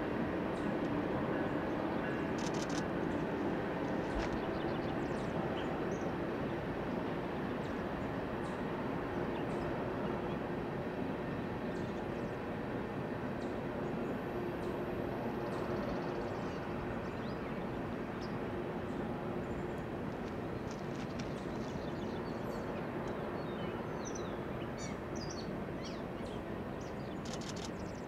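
Union Pacific freight train's diesel locomotives and rolling cars crossing a steel trestle bridge at a distance: a steady drone with a low hum that slowly fades as the engines move away. Birds chirp now and then, most often near the end.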